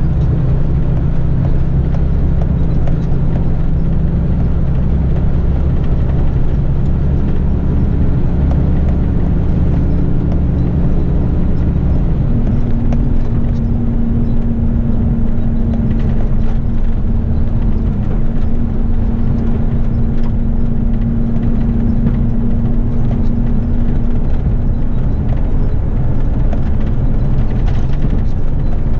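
Eight-wheeler heavy rigid truck's diesel engine running steadily on the road; about twelve seconds in, the engine note changes and a steady higher hum takes over.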